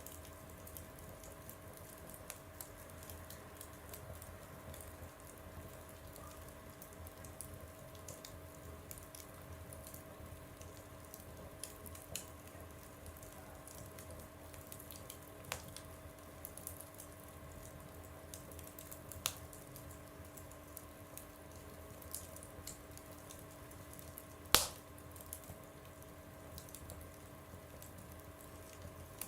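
Wood fire burning in a stove, crackling steadily with many small ticks, a few sharper snaps and one loud pop near the end.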